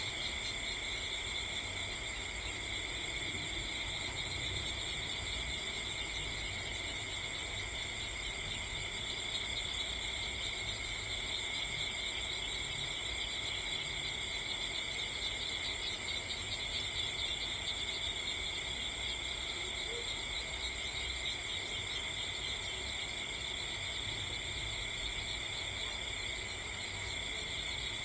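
A steady chorus of insects chirring, a continuous high shrill sound in several bands that never lets up, over a low steady rumble.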